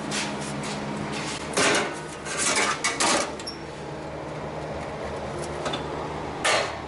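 Hammer blows on a sheet-metal panel, pounding in a bulge: one strike about a quarter of the way in, a quick cluster of strikes just after, and one more near the end, over a steady low hum.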